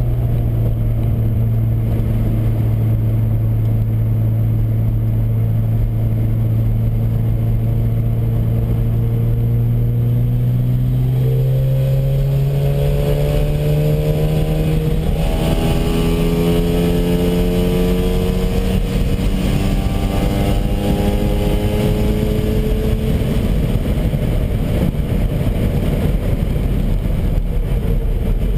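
Mazda RX-7 FD3S's twin-turbo rotary engine heard from inside the cabin. It holds steady at low revs, then rises slowly in pitch for about ten seconds under acceleration, and the engine tone fades into road and wind noise near the end.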